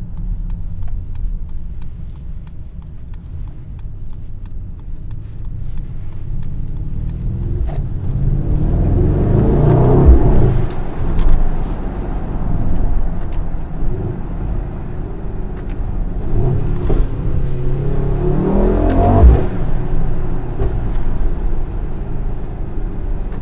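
Mercedes-AMG GLS 63's twin-turbo V8 in Sport Plus, heard from the cabin with the sunroof tilted open: the engine climbs in pitch through two hard accelerations, peaking about ten and nineteen seconds in, with pops and bangs from the exhaust around the peaks.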